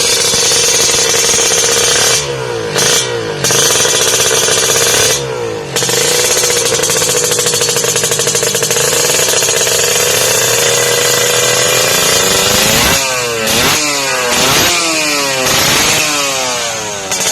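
Kawasaki Ninja 150 two-stroke single-cylinder engine through a WRS aftermarket exhaust, revved and held at a steady high pitch, with two brief dips in the first six seconds. Near the end it is blipped up and down quickly several times.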